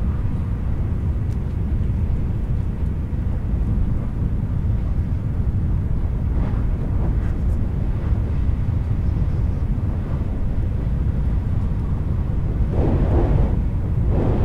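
Steady low rumble of a Shinkansen train running at speed, heard from inside the passenger car. Two brief louder rushes come near the end.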